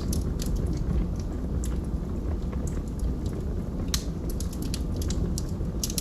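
Log fire crackling: irregular sharp pops and snaps over a steady low rumble of the flames, with one louder pop about four seconds in.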